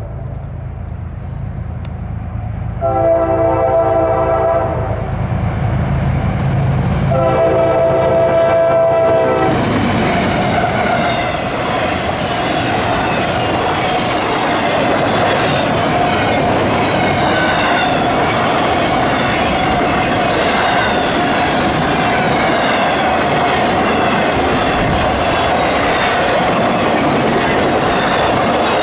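Freight train's diesel locomotive horn sounding two long blasts of about two seconds each. About nine seconds in, the train reaches the crossing and its intermodal flatcars loaded with trailers rush past at speed: loud wheel-and-rail noise with clickety-clack and a steady whine running through it.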